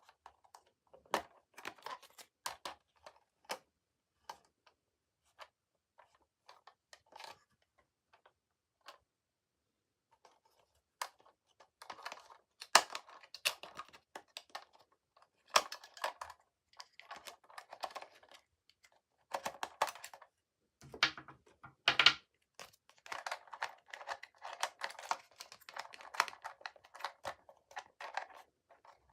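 Toy packaging being handled and opened by hand: irregular small clicks, taps and crinkles, sparse at first and busier from about twelve seconds in.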